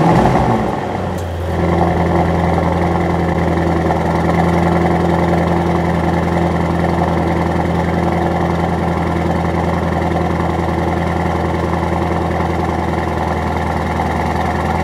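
Mercedes-AMG SL 63's 4.0-litre twin-turbo V8 just started, flaring loudly in the first second, then settling into a steady idle.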